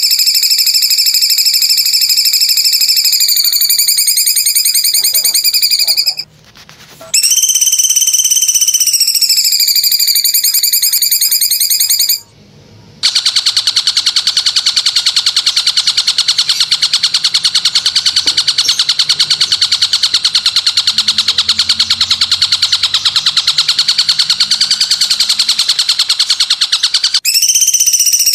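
Looped recordings of loud insect calls played as songbird training audio. A fast-pulsing buzz on one steady pitch with overtones cuts out twice for under a second each time. About 13 s in it gives way to a different, hissier rattling trill, and the pitched buzz comes back near the end.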